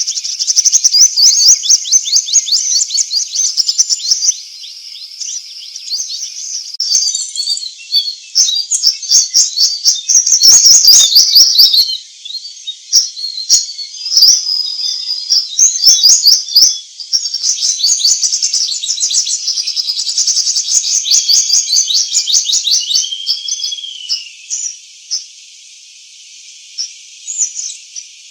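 Songbirds chirping and trilling in fast, high-pitched runs that overlap, over a steady high hiss. The song thins to a few scattered chirps near the end.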